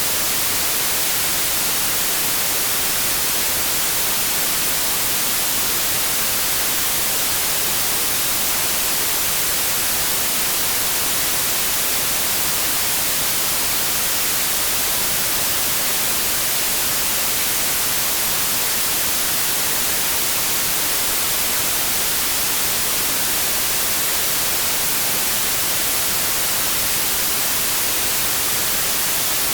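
Steady synthetic white noise: an even, unchanging hiss across the whole frequency range, strongest in the highs.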